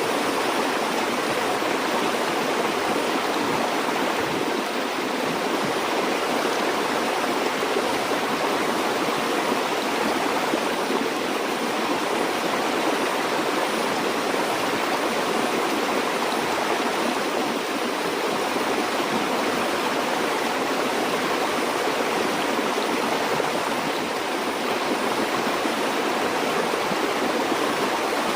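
A flowing stream or small river rushing and burbling steadily, with no breaks or changes in level.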